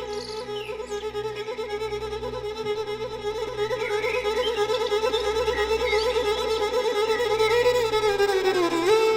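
Slow relaxing music led by a violin holding long notes with vibrato over a steady low accompaniment; near the end the violin glides down in pitch.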